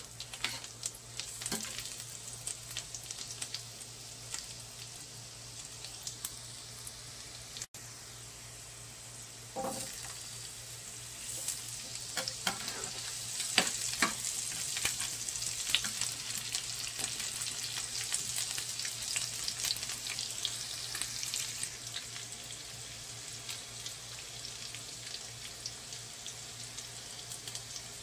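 Garlic and then chopped onion sizzling in hot oil in a nonstick frying pan, with short pops and the clicks of a metal spoon stirring. The sizzle gets louder about a third of the way in, as the onion goes into the pan.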